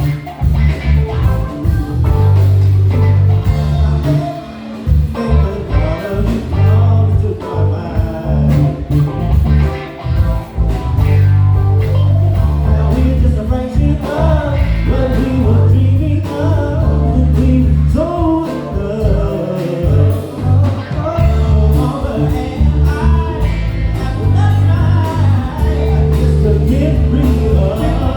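Live band playing: a loud, heavy bass line under drums, keys and guitar, with a singing voice over the top.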